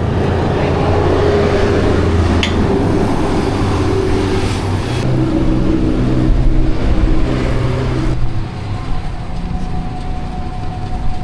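A motor vehicle's engine running steadily, its note shifting a couple of times, becoming quieter about eight seconds in.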